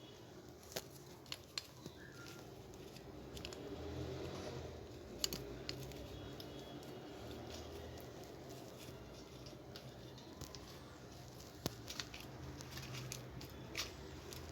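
Scattered small clicks and taps of a hair dryer's plastic housing and internal parts being handled and fitted together, a few in the first two seconds, one about five seconds in and a cluster near the end, over a faint low background.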